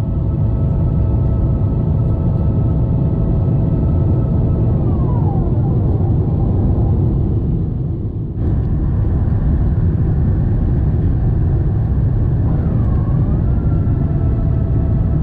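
Airliner cabin noise: a steady low rumble of the engines and airflow, with engine tones that slide down in pitch about five seconds in, a brief break about eight seconds in, and a short dip and recovery in pitch near the end.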